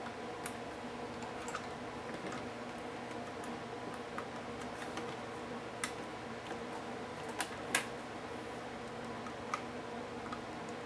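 Scattered sharp clicks and taps of a laptop being taken apart, about half a dozen spread out, two close together near eight seconds in, over a steady hum.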